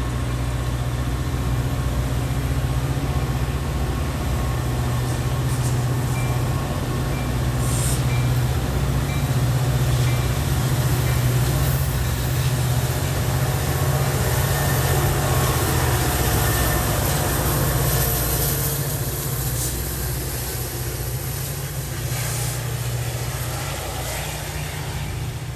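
A train rolling past on the rails, with a steady low rumble. It gets louder toward the middle and eases a little near the end, with faint high wheel noise.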